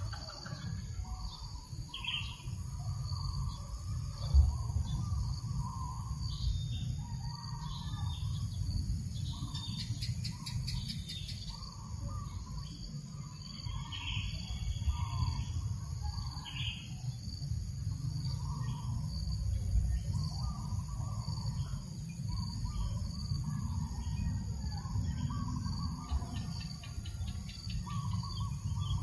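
Birds calling and chirping here and there over a steady low rumble of breeze, with a faint, even insect trill high above. A single low thump about four seconds in.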